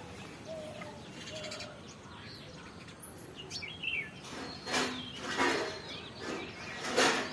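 Birds chirping and calling, with short whistled chirps in the first half, then several louder, noisy bursts from about four and a half seconds in.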